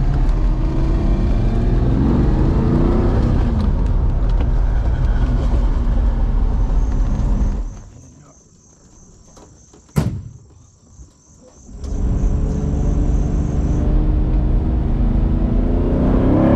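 Lamborghini Diablo V12 heard from inside the cabin, its pitch rising and falling as it is driven through the gears. It breaks off about eight seconds in to a few seconds of quiet with one sharp click and a faint high repeating chirr. The engine sound picks up again about four seconds later.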